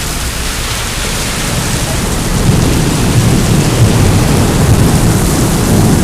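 Heavy rain pouring down in a steady hiss, with a low rumble that builds up about two seconds in.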